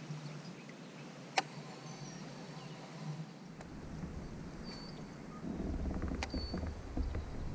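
Faint open-air ambience with one sharp click about a second and a half in, a few faint short high chirps and clicks later on, and a low rumble that starts about halfway and grows louder near the end.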